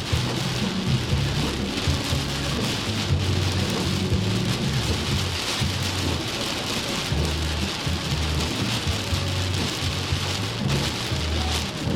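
Heavy rain pouring down in a storm, a dense steady hiss, with a low rumble that swells and fades several times underneath.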